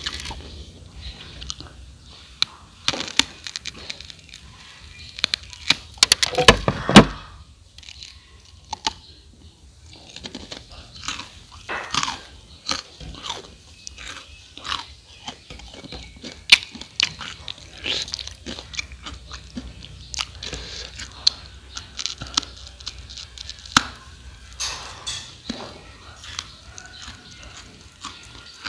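Close-up biting and chewing of crispy fried rice cakes: many short, sharp crunches and crackles. A loud burst of crunching about six to seven seconds in.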